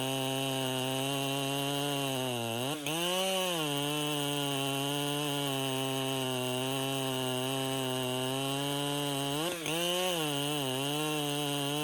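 Two-stroke chainsaw running at high revs, cutting. Its pitch sags under load and then picks back up twice, about three seconds in and near the ten-second mark.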